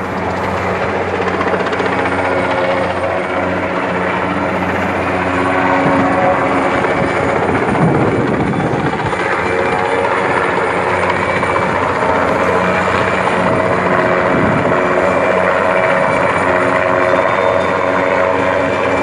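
Large heavy-lift helicopter running overhead, a steady rotor and turbine drone that grows a little louder over the first couple of seconds and swells again about halfway through.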